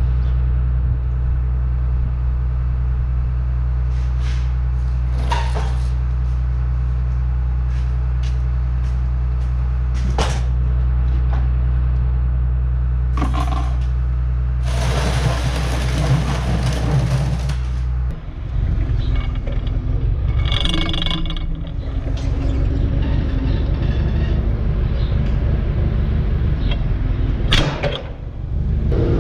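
Tractor engine running steadily at idle, with scattered clicks and knocks. A loud hiss about halfway through lasts about three seconds, after which the steady hum gives way to a rougher, more uneven rumble.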